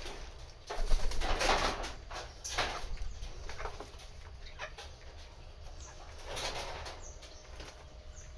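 Birds flapping their wings in a noisy flurry, loudest from about a second in to three seconds, with a smaller flurry later on.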